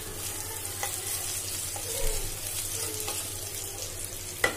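Garlic and ginger paste with split green chillies sizzling in hot oil in a non-stick kadhai, a steady high hiss, with a wooden spatula scraping through it. Two sharp knocks come near the end.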